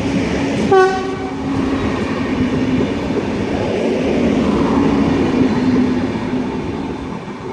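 Renfe Class 448 electric multiple unit passing through the station, giving one short horn blast on a single steady note about a second in. Its running noise and a low hum build, then fade near the end.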